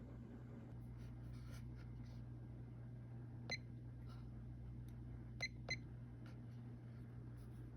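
View Fan Spinner V36R ceiling fan motor running at medium speed with a steady low electrical hum, typical of this cheap 1980s model. A few faint ticks come about halfway through and twice more shortly after.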